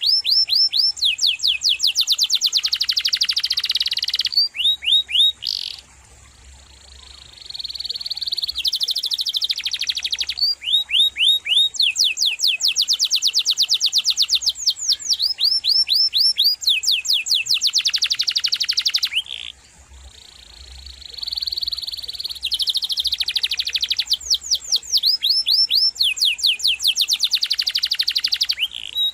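Domestic canary singing long, rapid rolling trills of fast repeated down-sweeping notes, breaking off briefly twice.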